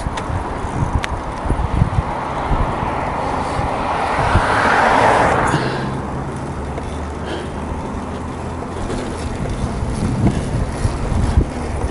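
A car passes, its noise swelling and fading about halfway through, with wind rumbling on the microphone.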